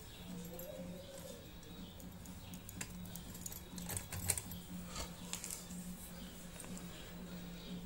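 Faint clicks and light knocks from handling pipe and fittings, most of them in the middle seconds, over a steady low hum.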